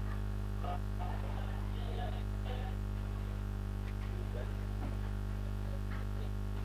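Steady electrical mains hum on the microphone line, with faint indistinct sounds over it.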